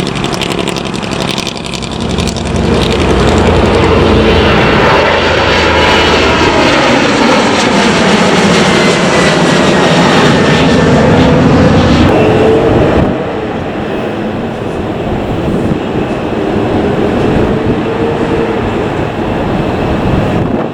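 A Boeing 737-800's CFM56 jet engines at takeoff power, a loud roar with tones that slowly slide down in pitch as the jet passes. About 13 seconds in the sound drops suddenly to a quieter rumble.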